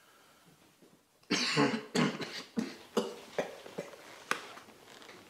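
A person coughing: one hard cough about a second in, then a run of about six shorter coughs that grow weaker.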